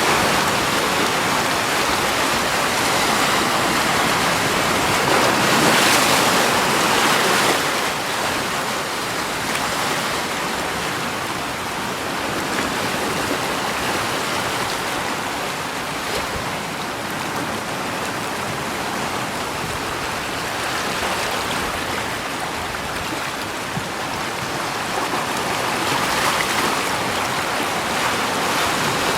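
Steady rushing water, swelling louder a few seconds in and again near the end.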